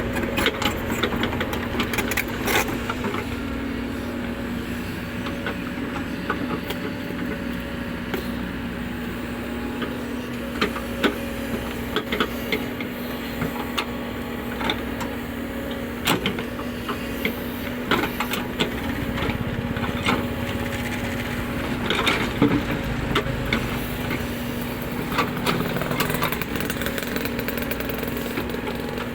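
Cat 307E2 mini excavator's diesel engine running at a steady speed, with scattered knocks and clatters throughout.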